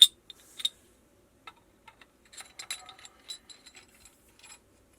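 Small metal plumbing parts clicking and clinking as they are handled and fitted onto threaded pipe. There is a sharp click at the start, another about half a second in, then a run of light clinks in the middle that stops shortly before the end.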